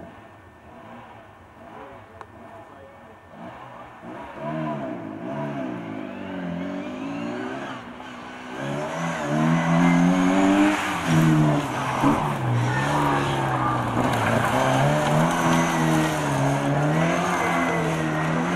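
Classic Mini's A-series four-cylinder engine revving hard, its pitch rising and falling repeatedly as the car is driven through a rally test. It grows much louder about eight seconds in as the car comes nearer.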